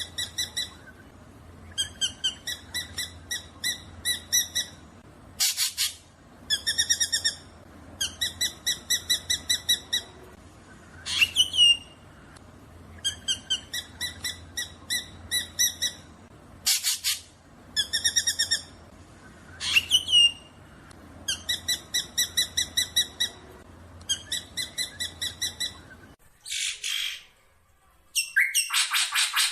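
Black drongo calling: repeated runs of quick, evenly spaced notes about a second long, broken by a few harsh single calls and upward-sweeping whistles. Near the end a louder, denser chatter takes over.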